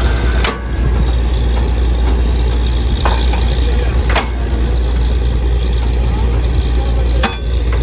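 Truck-mounted borewell drilling rig running loud and steady, its engine and air compressor giving a deep continuous drone, with a couple of brief dips in level.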